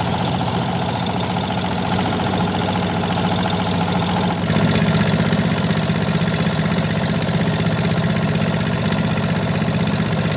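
Boat engine running steadily at a constant speed, loud and even; about four and a half seconds in its sound changes, the deep part growing stronger and the high hiss dropping away.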